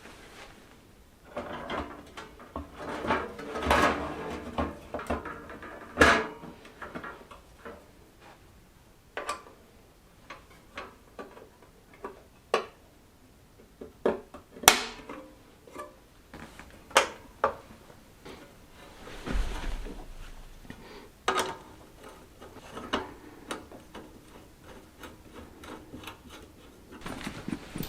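Workshop handling sounds: sharp clicks and knocks at irregular intervals as tools and small parts are picked up and set down, with soft rustling in between.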